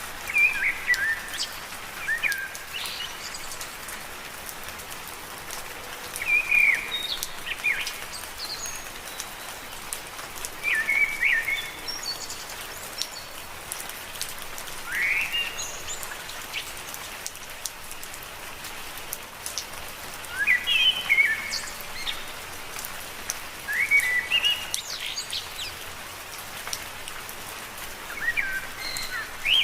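Steady gentle rain falling on leaves, with fine dripping ticks. Short chirping calls come every few seconds.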